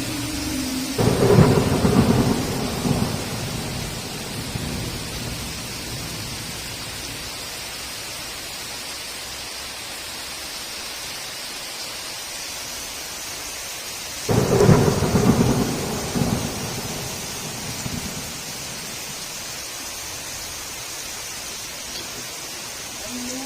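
Heavy rain falling steadily, broken by two claps of thunder, one about a second in and another about fourteen seconds in. Each clap rumbles low for two or three seconds before dying back into the rain.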